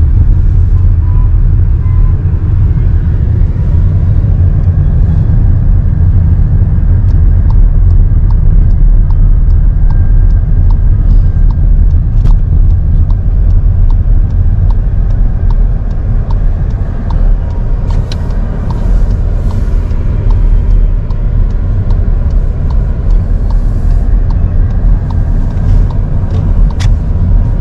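A car's steady low road and engine rumble heard from inside the cabin while driving, with a few faint scattered clicks.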